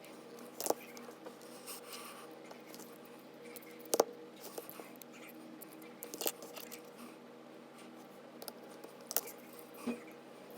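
Sharp small clicks and taps of repair tools and phone parts being handled, five or so at irregular intervals, the loudest about four seconds in, over a faint steady hum.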